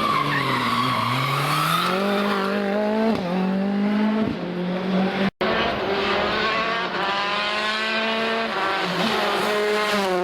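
Rally car engine revving hard. Its pitch dips and then climbs as it slows and accelerates. After a sudden break about halfway, the engine holds high, steady revs and falls off near the end.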